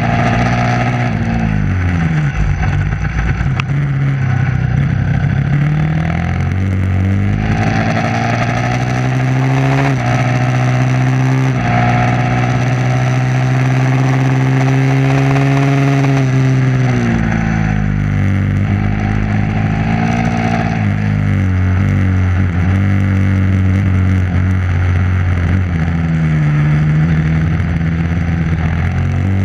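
Motorcycle engine being ridden hard around a race track. Its pitch climbs under acceleration and drops sharply several times, as the bike shifts gear and brakes, then climbs again.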